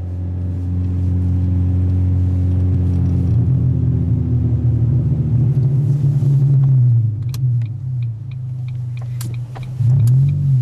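Ford Focus engine running through an aftermarket Steelhaus exhaust: a steady low drone that rises a little around the middle and settles again. In the second half come several sharp clicks, then a quick blip of revs near the end.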